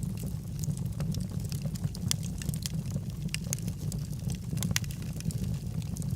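Logs burning in a fireplace, crackling with irregular sharp pops and snaps over a steady low rumble of the flames.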